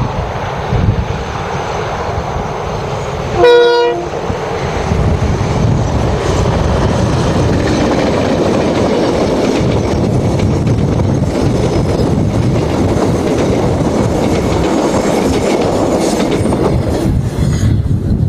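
Diesel locomotives hauling a passenger train past, with one short horn blast about three and a half seconds in, the loudest sound. After it the locomotives and carriage wheels run steadily past, the noise thinning near the end as the train goes by.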